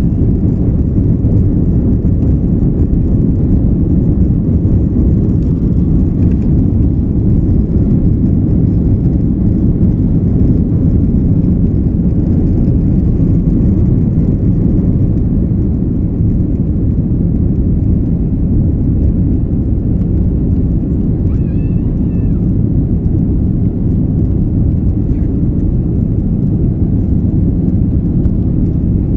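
Airbus A330-300 cabin noise during takeoff: a steady, loud, low rumble of the twin engines and airflow, heard from inside the passenger cabin.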